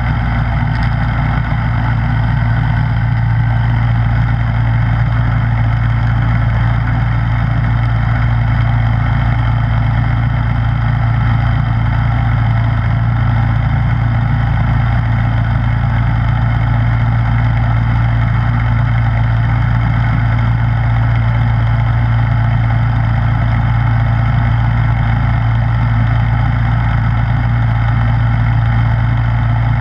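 Snowblower engine running at a steady, unchanging speed, with a strong low hum.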